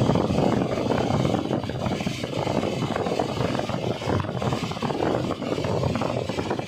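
Twin piston engines of a Cessna 414 running under power during a high-speed taxi, heard from inside the cabin as a steady, dense rumble.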